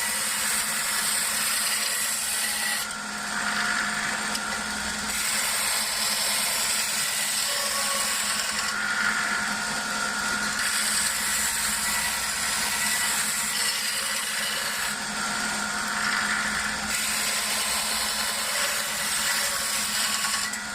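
Motor-driven belt knife sharpener running steadily, a knife blade drawn across its felt polishing belt loaded with white rouge. There is a steady hum under the belt noise, and the sound changes briefly about every six seconds as the passes go on.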